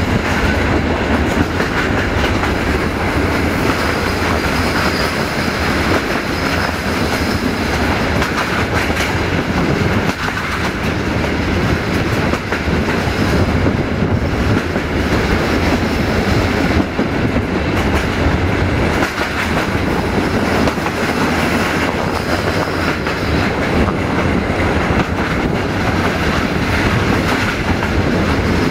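Passenger train running along the track: a steady rumble of the coach's wheels on the rails, even in level throughout.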